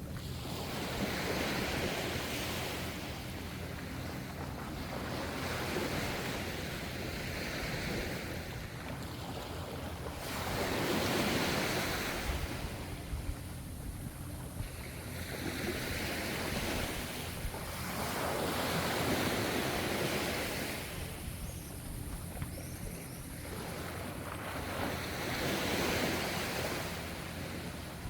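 Gentle ocean waves breaking and washing in, one surge every few seconds, over a steady low rumble.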